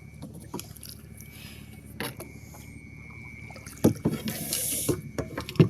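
Canoe paddling: a short splash of water off the paddle about four seconds in, with a few dull knocks of the paddle against the canoe hull.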